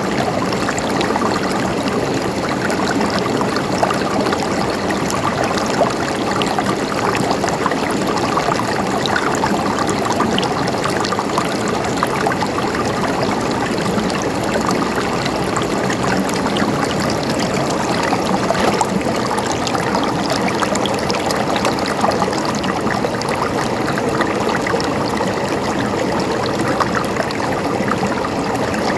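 Flowing water gurgling steadily, with no pauses or single events standing out.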